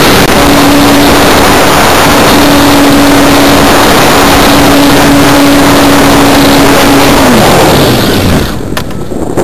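Electric motor and propeller of a Simprop Hurricane RC electric glider running with a steady whine under heavy wind rush, then spinning down with a falling pitch about seven seconds in as the power is cut. After that, mostly wind rush remains, somewhat quieter.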